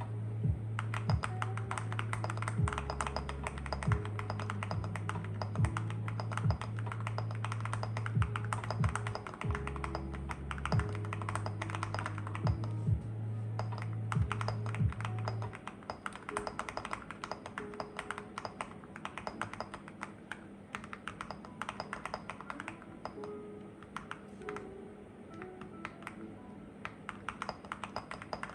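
Typing on a Sugar65 mechanical keyboard with WuQue Studio Jade switches, an FR4 plate and Cerakey ceramic keycaps: a steady run of key clicks with a metallic ting. Background music plays under the typing, and its bass drops out about halfway.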